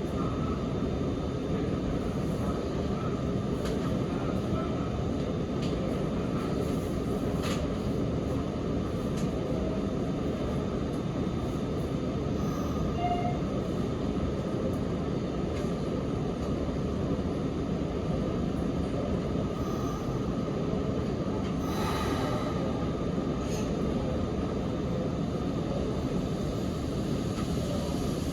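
Running noise inside a Sanyo Electric Railway 3050 series train car as it travels between stations: a steady rumble of wheels on rail, with a few brief sharp clicks.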